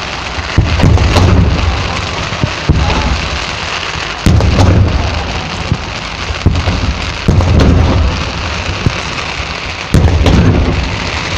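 Aerial firework shells bursting: about half a dozen sharp booms, each followed by a low rumble, over a continuous dense crackle.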